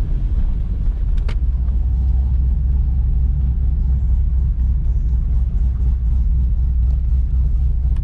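C6 Corvette's 6.0-litre LS2 V8 running at low speed with a steady, deep sound while pulling in.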